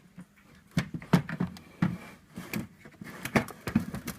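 A run of irregular clicks and knocks as the bottom compartment drawer of a Hotpoint US-style fridge-freezer is opened and handled.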